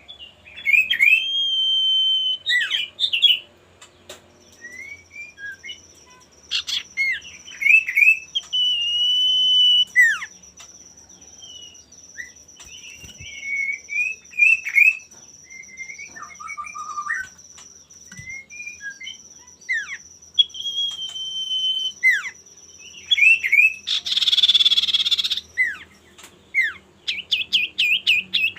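Male common iora (cipoh/sirtu) singing steadily: repeated clear whistles, some held flat for about a second, mixed with quick down-slurred chirps and short twitters. A thin, steady high tone runs under most of it, and a short harsh rasping burst comes near the end.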